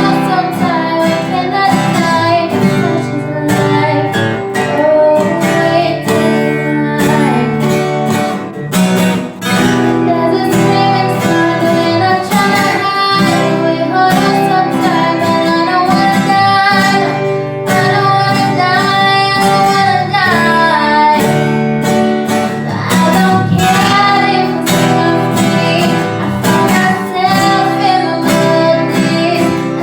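A female voice singing a pop ballad, accompanied by acoustic guitar.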